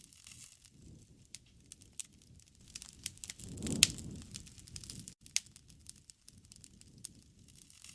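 Wood campfire burning, crackling with frequent sharp pops over a low, swelling rush of flame; one louder crack comes a little before the middle.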